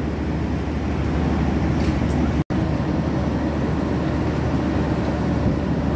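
Steady low rumble of a passenger train carriage, with a momentary total dropout about two and a half seconds in.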